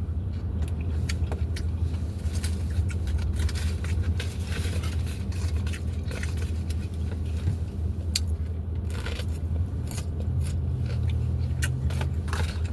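Close-up eating of a taco: scattered crunching bites and chewing, over a steady low hum.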